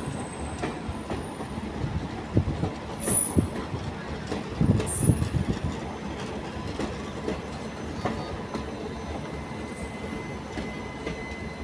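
Train at a railway station, a steady rumble broken by irregular knocks for a few seconds, with two short high squeals about three and five seconds in.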